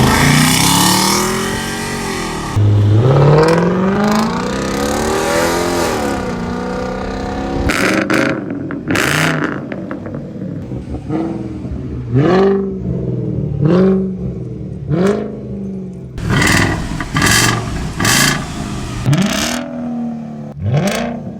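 Audi A8's V8 through a custom 3-inch true dual exhaust with an X-pipe, revved up and down in a few long pulls, then blipped in a string of quick, short revs.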